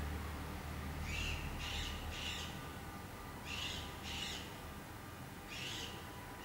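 A bird calling off-camera: short harsh calls, three in quick succession, then two, then one.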